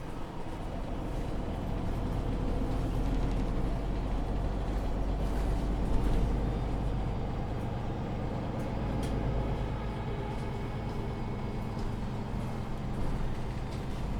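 MAN Lion's City 19C EfficientHybrid articulated bus with its diesel engine and Voith automatic gearbox driving along, heard from inside the bus: a steady low engine and road rumble that swells over the first couple of seconds, with a few light rattles.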